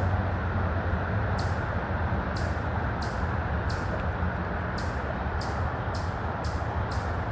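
A bird chirping in short, high calls, about one or two a second, over a steady low rumble.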